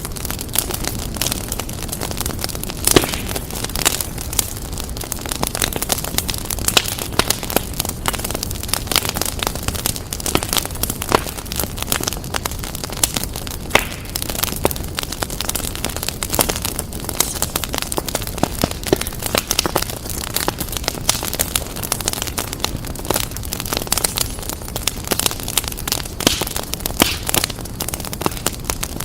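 Fireplace fire crackling and popping continuously, with many irregular sharp snaps over a steady low rumble.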